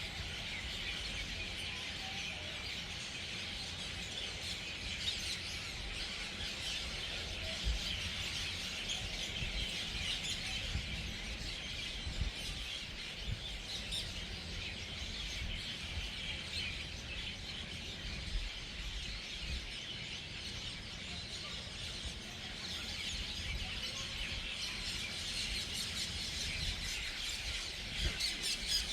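A large flock of birds chattering and chirping all at once at an evening roost: a dense, continuous din of many overlapping calls.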